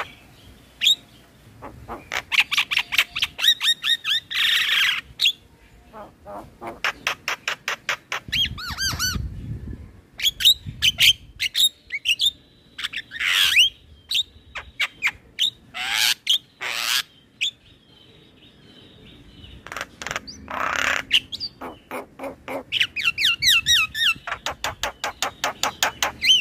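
A male Javan myna singing a long, varied song: fast runs of repeated clicking notes, sweeping whistles and harsh squawks, broken by short pauses.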